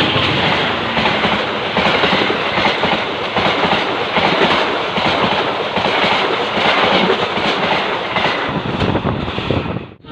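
A train passing close at speed, its wheels clattering over the rail joints in a steady run of beats. The sound cuts off suddenly near the end.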